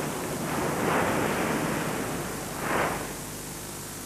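Surf washing on a shore: a steady rush of water noise that swells twice, the first swell longer and the second shorter.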